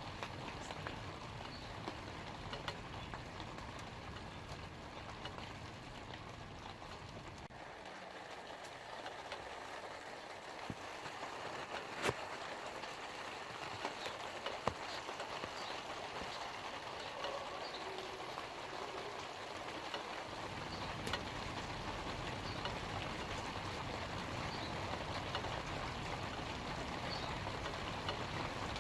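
Light rain falling on leaves: a steady patter of drops with a couple of sharper taps about twelve and fifteen seconds in. Under it a low rumble fades out about eight seconds in and comes back about twenty seconds in.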